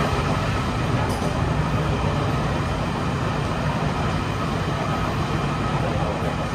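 Steady running noise inside a moving passenger train carriage: a continuous rumble and hiss with a faint steady whine above it.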